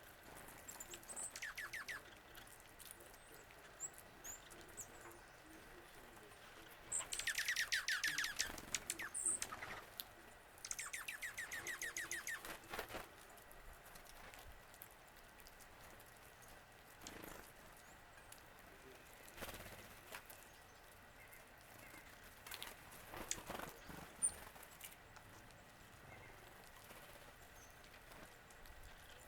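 A songbird singing three bursts of fast, evenly repeated notes that each slur downward: a short one near the start, the loudest about seven seconds in, and another about ten seconds in. Fainter short calls follow later.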